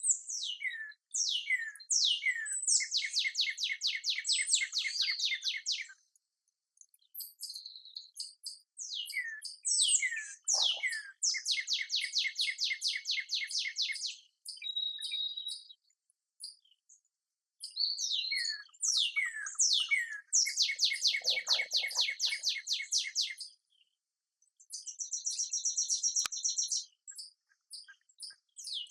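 A songbird singing the same song three times: a few quick down-slurred whistles, then a fast trill lasting a few seconds. A steadier buzzy note follows near the end.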